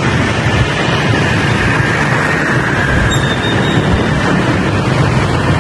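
Riding noise on a moving motorbike: steady wind rush on the microphone over the motorbike's engine.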